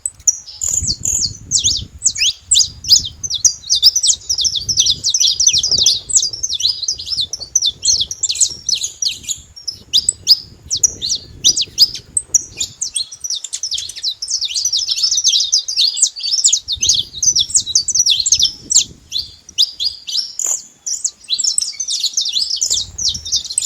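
Several saffron finches singing: a dense, unbroken run of rapid high chirps and trills, with a low rumble coming and going underneath.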